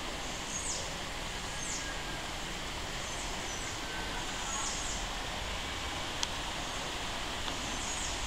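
Steady rushing background hiss, with a small bird's short, high chirps every second or two and a single sharp click about six seconds in.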